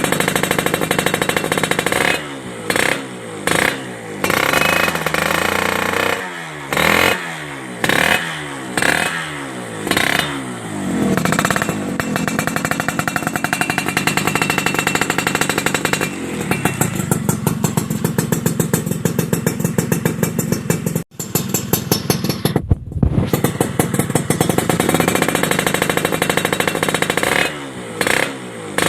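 Suzuki Satria motorcycle engine running through a WRS aftermarket racing exhaust, revved in a string of short throttle blips. It then holds at higher revs, cuts out sharply for a moment about two-thirds of the way through, and picks up again with more blips near the end.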